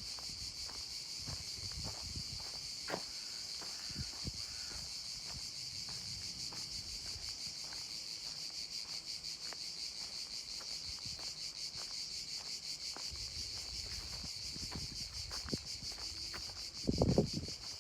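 Steady high-pitched chorus of insects with a fast, even pulsing, over soft intermittent footsteps. A louder low rustle comes near the end.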